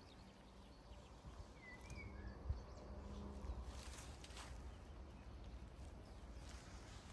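Quiet outdoor ambience with a steady low rumble, a short faint bird chirp about two seconds in, and a few soft footsteps around the middle.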